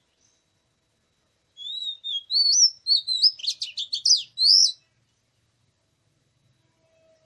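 Oriental magpie-robin singing: one phrase of about three seconds of varied high whistled notes, with a quick run of rapid notes in the middle, starting about a second and a half in.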